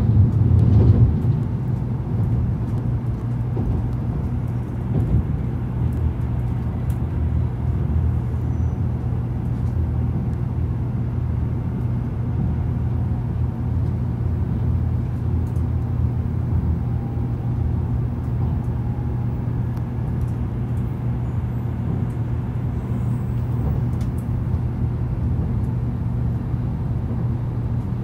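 Cabin noise of an N700-series Shinkansen rolling along: a steady low rumble from the running gear, a little louder about a second in.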